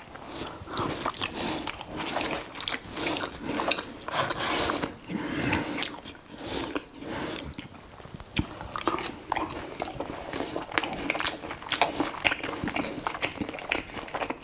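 A man chewing mouthfuls of beef patty and rice close to the microphone, with a few sharp clicks of knife and fork on the plate.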